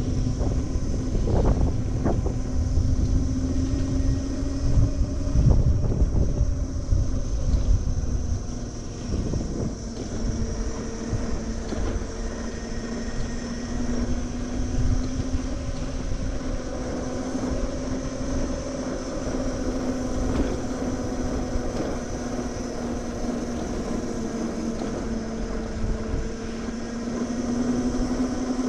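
Riding noise from a Gen7 electric moped on the move: wind rushing over the microphone and road rumble, heavier for the first several seconds, with a steady motor hum that drifts slightly in pitch.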